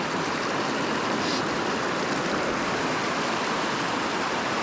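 Steady rush of a small creek's water tumbling over rocks and small waterfalls.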